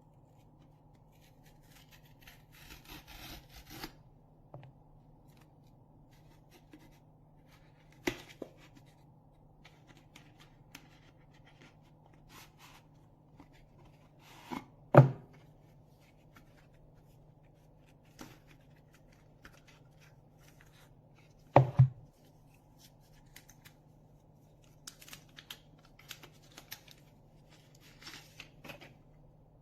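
Handling noise of the plastic earbuds and their charging case: scattered sharp clicks and knocks, the loudest about halfway and again about three quarters in, with stretches of rubbing and rustling near the start and near the end.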